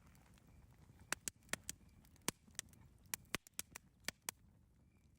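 Campfire crackling: irregular sharp pops and snaps, about a dozen, over a faint low rumble of the flames.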